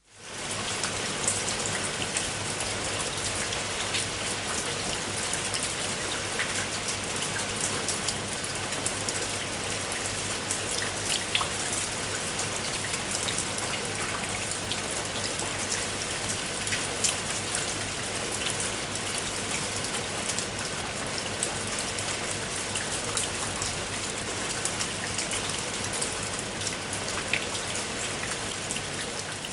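Steady rain falling, a dense hiss with many small drop ticks on a surface; it fades in at the start.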